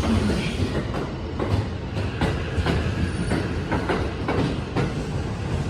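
Electric train moving along a station platform: a steady low rumble of wheels on rail with repeated clacks as the wheels cross rail joints.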